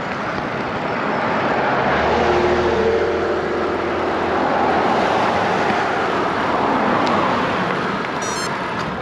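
Cars passing on a two-lane road, their engine and tyre noise swelling to a peak about two seconds in and again around six seconds, then fading.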